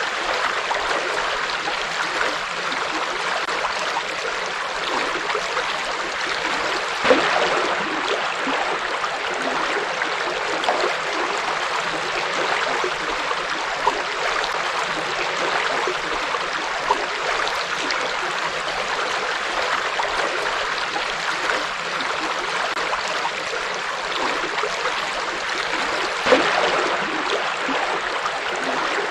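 A river flowing steadily over rocks, a continuous rush of water with small splashes and gurgles; a couple of slightly louder splashes stand out, one about seven seconds in and one near the end.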